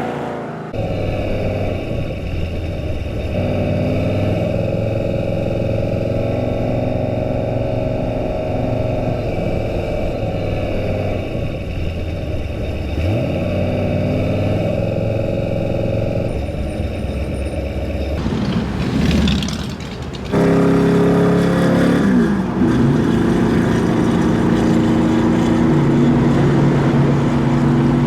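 Off-road race truck engine running hard at speed, its pitch rising and falling as it revs and shifts. The sound changes abruptly about two-thirds of the way in, then turns louder with clear revving.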